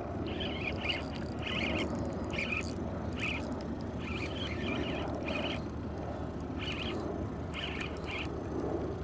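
Fishing reel's drag buzzing in short, irregular bursts as a hooked white sea bass pulls line off against it, over a steady low background rumble.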